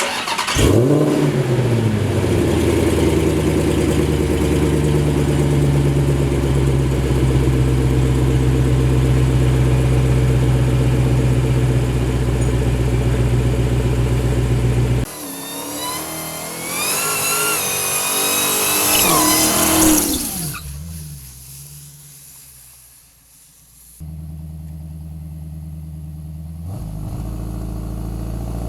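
Supercharged 6.2-litre V8 of a Dodge Challenger SRT Demon 170 starting with a quick rev and settling into a steady, loud idle. It then revs up with a rising pitch and falls away, and near the end idles again and begins to rise.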